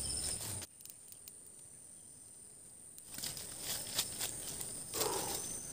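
Steady high-pitched drone of forest insects. It cuts out about a second in and returns about two seconds later, with scattered sharp clicks and rustles from the ground being cleared.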